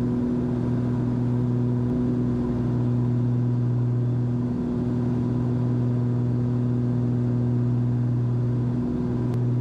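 Cabin drone of a Cessna 340's twin piston engines and propellers at climb power: a steady, even hum made of a few fixed tones, whose lowest tone dips briefly a few times.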